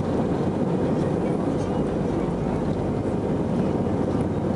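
Steady engine and airflow rumble heard inside the cabin of an Airbus A319 airliner during takeoff, an even, unbroken noise heaviest in the low range.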